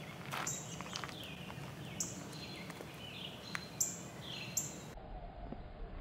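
A bird calling repeatedly: about six short, high calls, each sliding down in pitch, spaced well under a second apart. The calls stop about five seconds in.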